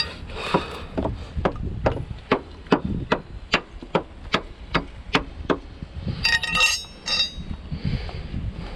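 Hammer blows in a steady run of about a dozen strikes, two to three a second. They stop after about five and a half seconds, followed by a brief burst of metallic clinking and ringing.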